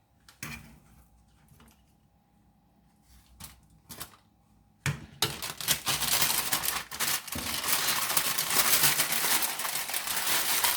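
A few faint clicks, then from about five seconds in a continuous crinkling of parchment paper being handled and folded around a slice of pie.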